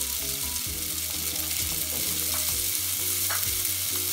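Maggi noodles sizzling in hot oil in a nonstick wok while a wooden spatula stir-fries them, with a few light taps of the spatula against the pan.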